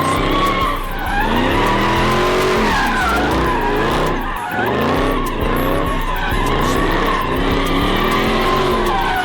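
A car drifting. Its engine revs rise and fall over and over, roughly once a second, over the steady squeal of skidding tyres.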